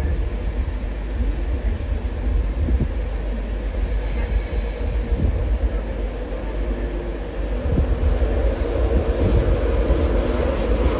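LNER InterCity 225 electric train pulling slowly out, a steady rumble of its coaches running over the rails and pointwork. Faint steady tones come in about halfway through.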